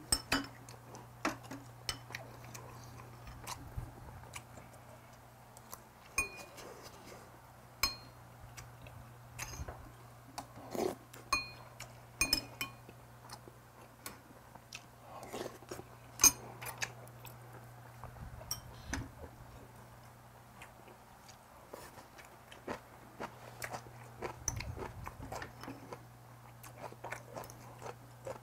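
A man chewing and biting food close to the microphone, with frequent short clicks of a metal spoon and chopsticks against bowls, over a steady low hum.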